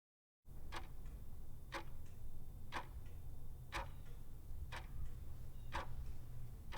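Sharp ticks, one each second like a clock ticking, over a steady low hum. They start after dead silence about half a second in.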